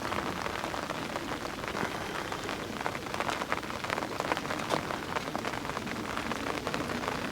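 Rain falling, a steady patter of drops with many small sharp taps close to the microphone.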